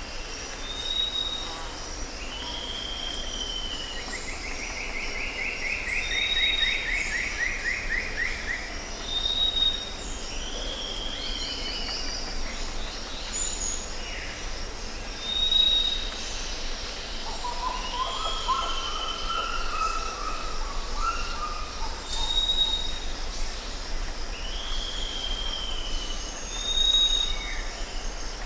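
Jungle ambience: a steady high-pitched insect drone with several birds calling over it. Short high whistles repeat every few seconds alongside downward-slurred calls, with a fast descending trill about four seconds in and a lower warbling phrase around eighteen seconds.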